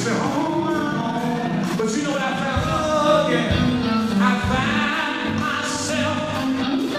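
Gospel group singing the song live, several voices together over instrumental backing.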